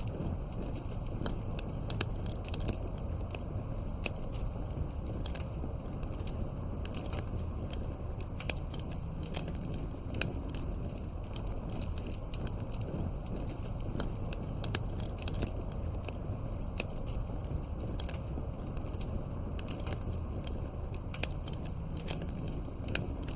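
Campfire burning with a steady low rush and frequent sharp crackles and pops of burning wood.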